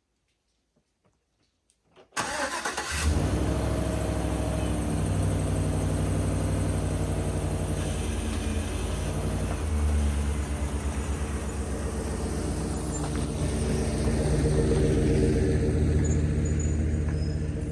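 Vehicle engine running, starting abruptly about two seconds in after near silence, its pitch stepping up and down a few times as if under way.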